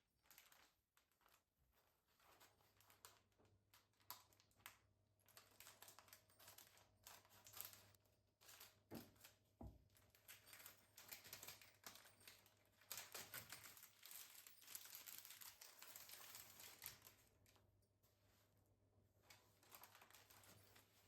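Faint crinkling and rustling with many light clicks and taps, busiest a little past the middle, over a faint steady low hum.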